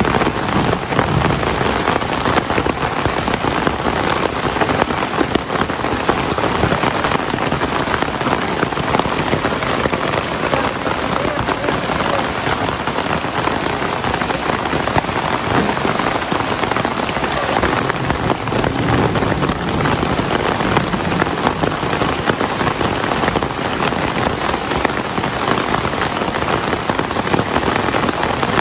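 Heavy rain falling steadily, a dense even wash of countless drop impacts with no let-up.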